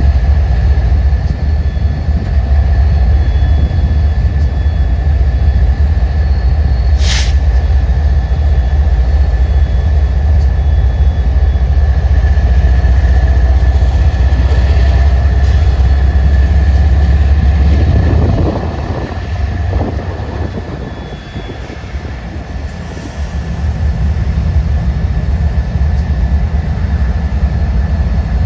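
A train running by with a heavy low rumble and a steady high whine. The rumble eases off about two-thirds of the way through and builds again near the end. A brief sharp high-pitched sound cuts in about seven seconds in.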